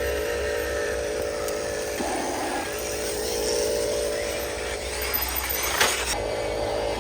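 Radio-controlled toy truck's drivetrain running with a steady whine, broken briefly by a rougher patch about two seconds in, and a single sharp click or knock near the end.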